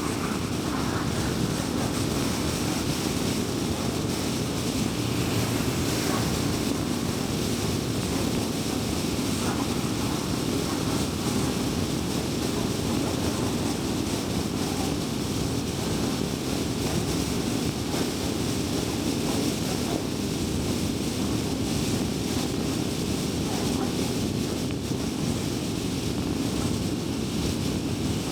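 Steady road and tyre noise of a car driving along a highway, an even rush with no distinct events.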